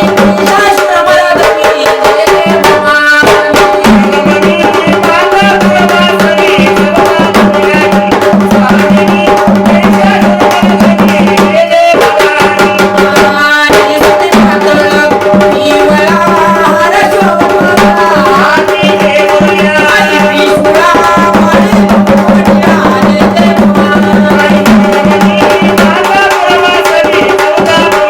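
Sambal, the Maharashtrian double-headed folk drum, played in a dense run of strokes over held drone notes and a wavering melody line, as folk devotional music.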